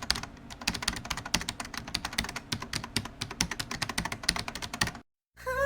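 Rapid, irregular clicking of keys being typed on a keyboard. It stops abruptly about five seconds in, and music starts just before the end.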